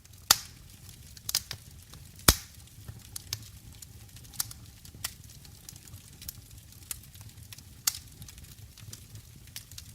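Wood fire burning in a fireplace, crackling with irregular sharp pops over a low steady rumble of the flames. The loudest pops come just after the start and about two seconds in.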